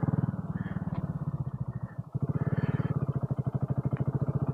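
BSA Gold Star 650's single-cylinder engine running under way with an even pulsing beat. The sound eases off and dips briefly about two seconds in, then picks up again.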